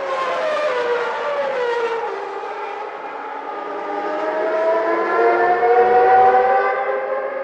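A 1991 Formula One car's high-revving engine. Its pitch falls over the first two seconds, then climbs steadily as the car accelerates.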